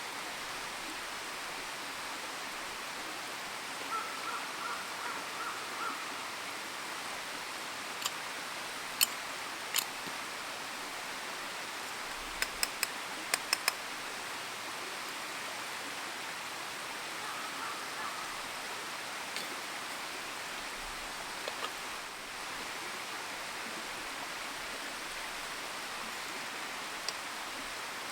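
Wood campfire crackling, with scattered sharp pops (a quick cluster of them about twelve to fourteen seconds in) over a steady rushing hiss.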